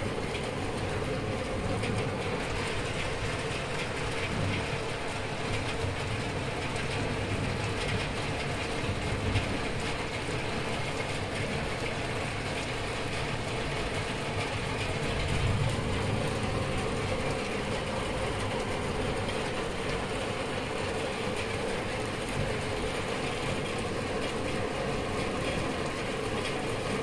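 Steady noise of heavy thunderstorm rain, mixed with the steady mechanical hum of an old window air conditioner running. A low rumble swells briefly about halfway through.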